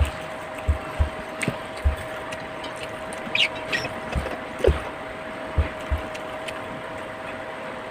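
Eating sounds: chewing with scattered low thumps and light clicks, over a steady faint hum.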